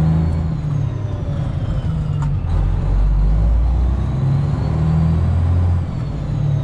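Straight-piped 12.7-litre Detroit Diesel engine of a Freightliner Classic XL semi truck running at low speed, its deep exhaust note swelling and easing a few times as the throttle changes.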